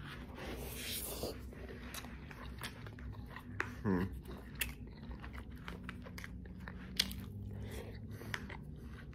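A person chewing and biting food close to the microphone, with many small wet clicks and crunches. About four seconds in there is a short hum, like an "mm".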